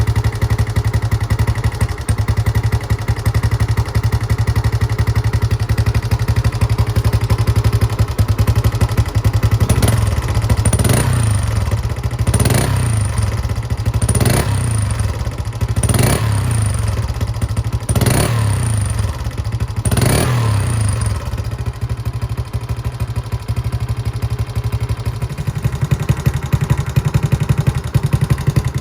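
Honda Little Cub's single-cylinder four-stroke engine, bored up to 88cc, with a PC20 carburettor and an RPM C90 aftermarket muffler, idling and then blipped about seven times in quick succession before settling back to idle. The exhaust is quiet enough that the intake noise through the drilled-out stock air-cleaner box stands out on the blips.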